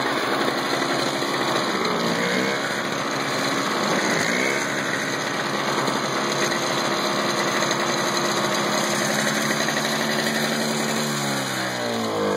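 Toro CCR Powercurve single-stage snowblower's two-stroke engine running steadily. Its pitch sags and recovers twice in the first few seconds and dips again near the end, as it bogs under the load of thick, heavy snow.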